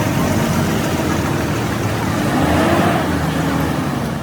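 Heavy truck engine running under load, its pitch rising briefly and falling again about two and a half seconds in.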